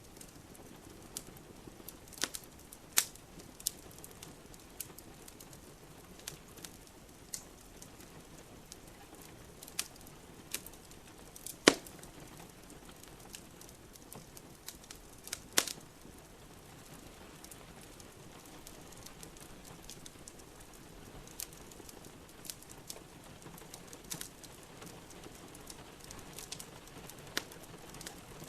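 Wood fire in a fireplace crackling, with irregular sharp pops, a few of them loud, over a steady soft hiss of rain.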